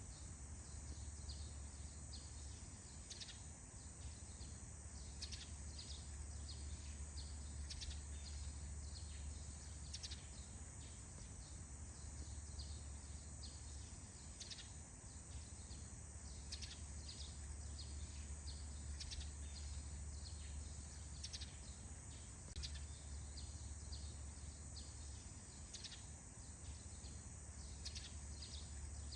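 Forest dawn ambience: faint, short high bird chirps scattered every second or so over a steady hiss and a low rumble.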